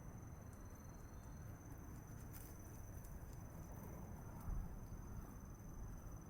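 Steady high-pitched cricket trill, with faint scattered clicks and a soft thump about four and a half seconds in.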